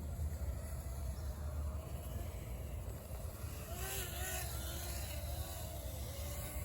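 Small electric RC aircraft motor and propeller whining, its pitch rising and falling with the throttle, over a steady low rumble.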